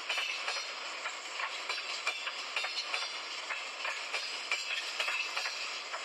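Train moving along the track: a steady rushing noise with irregular clicks and rattles from the wheels and cars.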